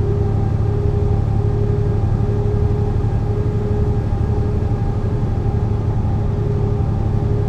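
Mercedes-Benz O 405 NÜ bus engine running at an even speed, a steady low drone with a constant whine above it.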